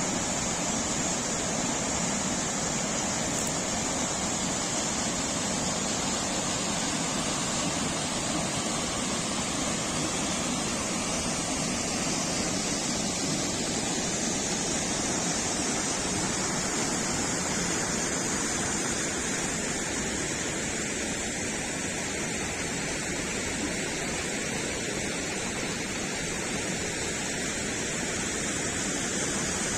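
Falling water rushing steadily, a dense even roar of water.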